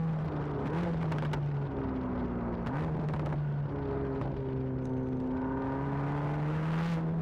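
Mercedes-AMG GT Black Series flat-crank V8 running steadily under way, its note dipping and rising slightly in pitch, with a few brief sharp clicks.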